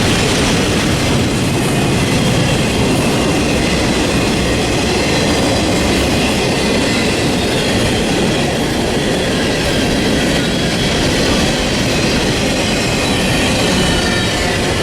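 Freight train cars rolling past, a steady loud rumble of steel wheels on rail with faint high-pitched wheel squeal over it.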